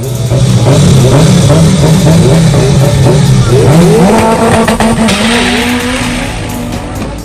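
Turbocharged Honda K24 inline-four engine running hard under load, its note wavering, then climbing in pitch about four seconds in and holding higher, with a burst of hiss about five seconds in.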